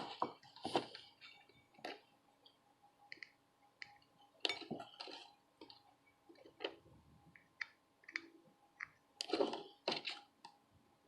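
Scattered small clicks, taps and short scrapes of hand tools such as tweezers and a soldering iron working on a circuit board, coming in irregular clusters.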